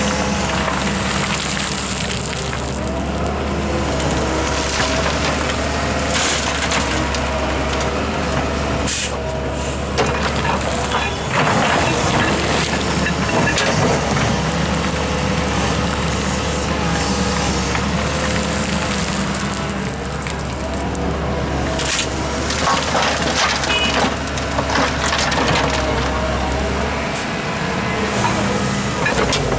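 Heavy diesel earthmoving machinery, an excavator with dump trucks, running steadily at work, with scattered knocks and clatter of soil and rock.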